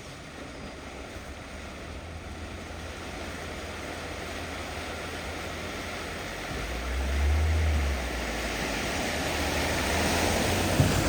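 Water rushing through a flooded ford, with a vehicle's engine rumble growing steadily louder as it approaches. The rumble swells about seven seconds in.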